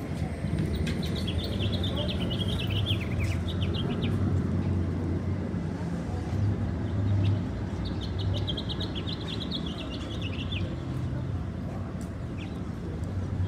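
A songbird sings two quick chattering phrases of rapid high chirps, each about two to three seconds long, the first soon after the start and the second about halfway through. Under them runs a steady low hum.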